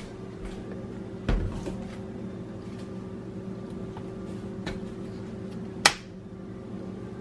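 Kitchen handling noises while coffee creamer goes into a mug: a dull knock about a second in and a sharp click near six seconds, over a steady low hum.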